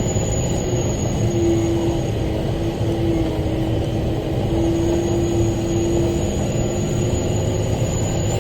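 Big rock truck's diesel engine running steadily while the truck reverses, with a steady whine holding for several seconds in the middle.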